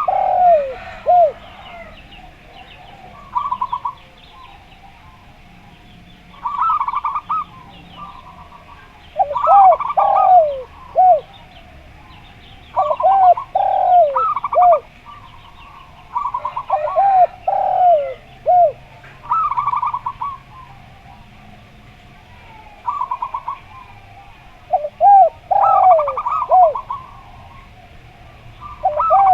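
Zebra dove and spotted dove cooing in turn, a phrase every two to three seconds. Each phrase has a fast rattling run of notes and a few low coos that dip in pitch. Faint small-bird chirps sound in the background.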